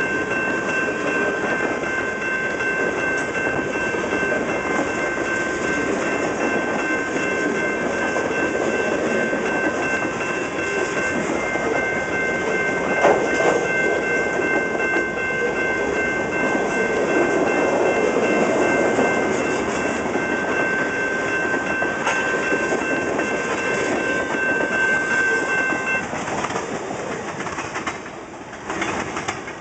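Canadian National freight train cars rolling past, their steel wheels clacking over the rails of a crossover, with a sharp bang about halfway through. A steady high-pitched ringing tone sounds over the train and cuts off about four seconds before the end. Then the train noise falls away as the last cars pass.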